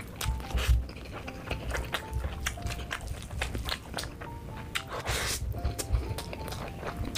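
Close-miked chewing and wet mouth sounds of a person eating rice and chicken in gravy by hand, with many small clicks and soft thuds and a brief squishy hiss about five seconds in. A soft background tune with a simple stepping melody plays underneath.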